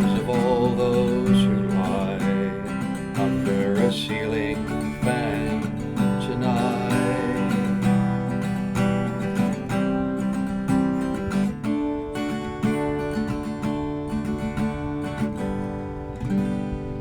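Acoustic guitar strummed to end a song, with a singing voice over the first several seconds; the guitar fades out near the end.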